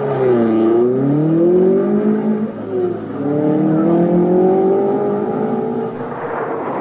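Rally car engine driven hard: the revs dip about half a second in and climb again, drop briefly a little before the 3-second mark, then rise steadily before fading near the end.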